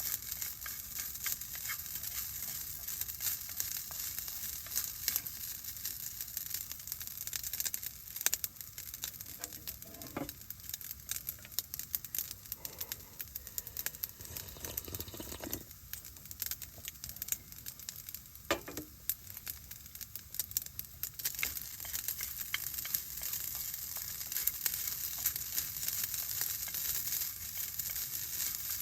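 Food sizzling in a frying pan: a steady high hiss full of small crackles, with a few light knocks around the middle.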